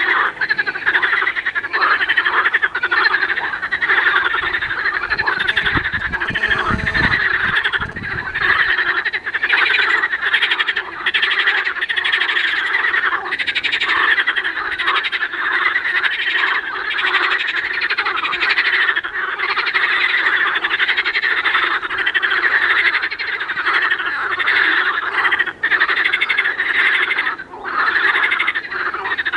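A loud, dense chorus of frogs croaking from a marsh, many calls overlapping without pause. A brief low rumble comes in about six seconds in and fades by eight seconds.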